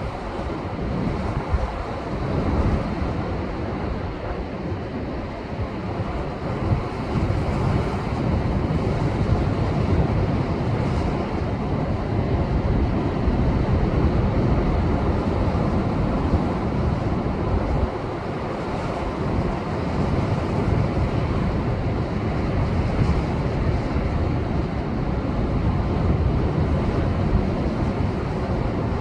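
Rough post-typhoon ocean surf surging and breaking against shoreline rocks, a continuous deep rush of churning water that swells louder for several seconds mid-way, with wind buffeting the microphone.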